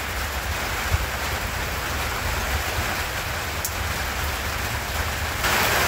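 Heavy rain falling steadily, an even hiss that grows a little louder about five and a half seconds in.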